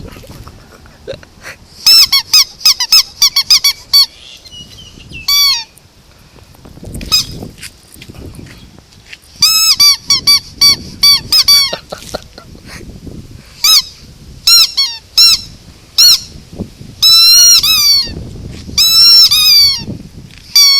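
Squeaky rubber toy ball squeezed over and over, giving loud clusters of short, high squeaks, several a second, with pauses between the clusters.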